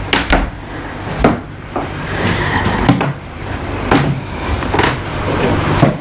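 Irregular knocks and thumps, roughly one or two a second, over a steady rushing noise.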